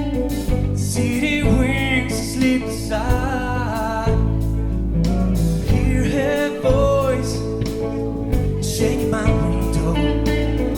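A live rock band playing a mid-tempo ballad, with steady drums and cymbals, bass and a sung lead melody line.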